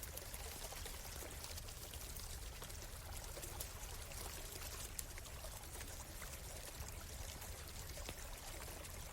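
Stream water flowing and trickling steadily, with a constant scatter of small ticks and crackles from a campfire beside it.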